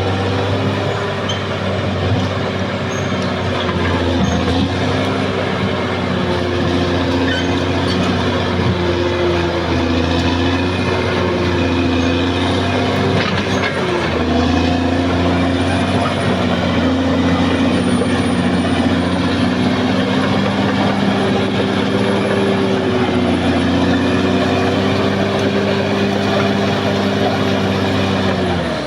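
Caterpillar D6R XL bulldozer's diesel engine running steadily under load, with the clatter of its steel tracks. The engine pitch sags briefly about halfway through, then comes back up.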